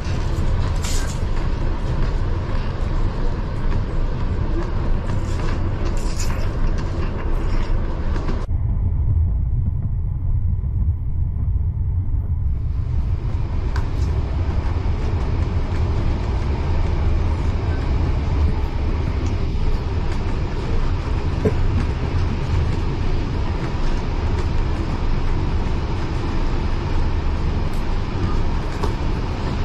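Heritage railway carriage rolling along the track, heard from inside: a steady low rumble of wheels on rails. The higher hiss drops away abruptly for a few seconds about a third of the way in, then returns.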